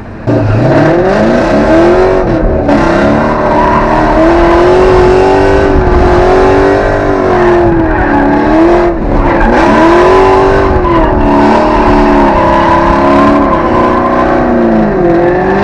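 Drift car engine revving hard during a drift run, pulling away from low revs and then rising and falling in pitch again and again as the driver works the throttle, with tyre noise underneath.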